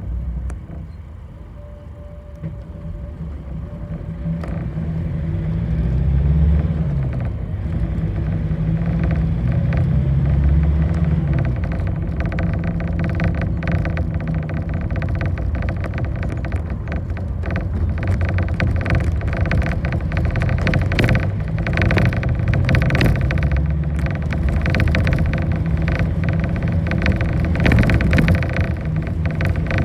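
Bus engine heard from aboard, pulling away and climbing in pitch through several gear changes, then running on at speed. From about twelve seconds in, frequent rattles and knocks from the bus body over the road.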